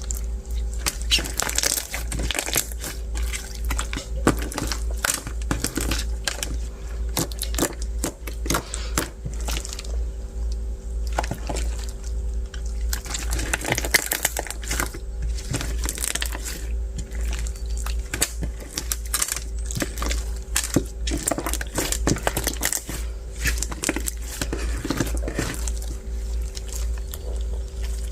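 Translucent bead slime being squished and kneaded by hand, with dense, irregular crackling pops and clicks from the beads, over a steady low hum.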